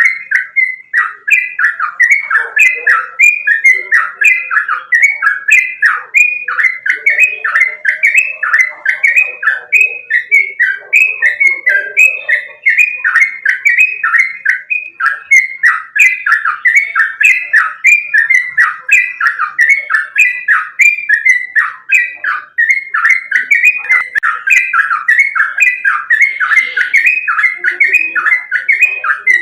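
Yellow-vented bulbul (trucukan) singing without a break: loud, quickly repeated falling whistled notes, about two a second.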